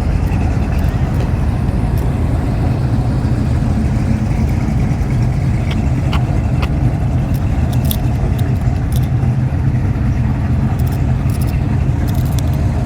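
A car engine running at a steady idle, a constant low rumble, with a few light clicks and jingles over it.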